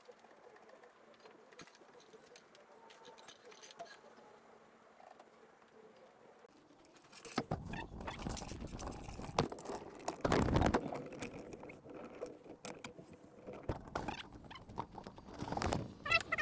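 Hand tools and metal parts being handled: scattered light clicks, then from about seven seconds in a louder run of irregular clinks, knocks and clatter.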